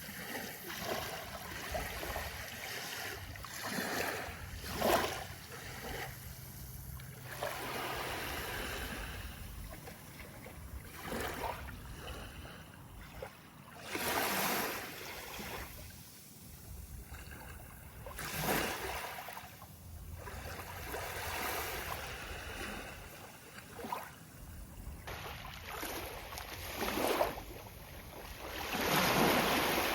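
Sea of Japan waves breaking on the shore: a steady wash of surf with separate breakers surging every few seconds, the loudest about halfway through and again just before the end.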